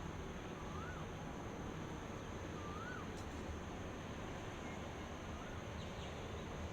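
Steady outdoor hiss with a constant high-pitched drone, over which a bird repeats a short whistle that rises and falls, about once every two seconds.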